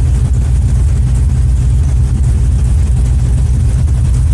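AK Cobra replica's LS7 7.0-litre V8 running at a steady, even pace, a loud low rumble with no revving.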